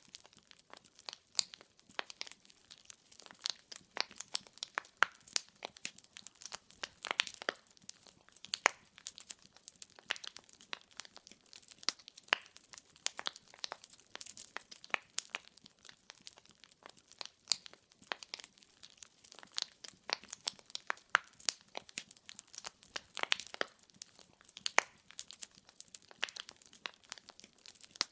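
Wood fire crackling in a fireplace: burning firewood logs giving off a steady stream of irregular sharp pops and snaps over a soft hiss.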